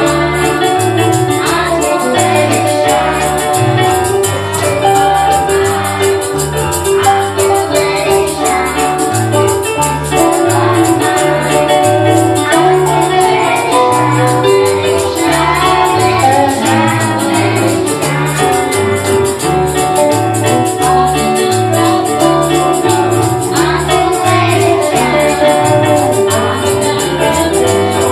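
Live gospel worship music: a band playing with a tambourine shaking on a fast, steady beat over a moving bass line, with some singing.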